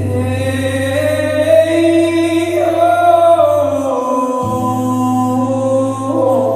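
A man singing a melody over a held acoustic guitar chord, with a crowd singing along.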